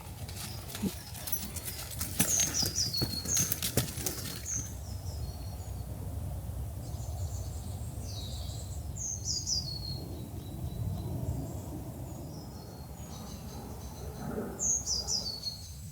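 Songbird calling outdoors: short falling chirps repeated every few seconds. A run of crackling clicks fills the first few seconds, over a steady low wind rumble.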